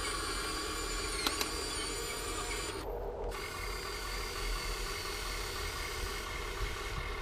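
Electric drive motors and metal gearboxes of a Huina 1580 all-metal RC excavator running with a steady whine. The whine briefly cuts out about three seconds in, and two light clicks come a little over a second in.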